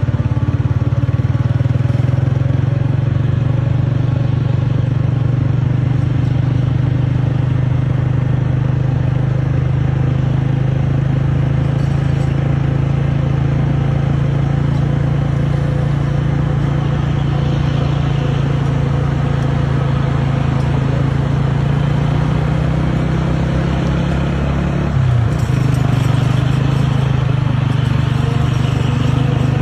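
Old Bedford truck's diesel engine running steadily, a loud low drone with a brief wobble in pitch about 25 seconds in.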